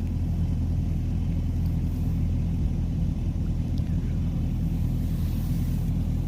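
Motor vehicle engine running steadily, the sound sitting low in pitch with no change in speed.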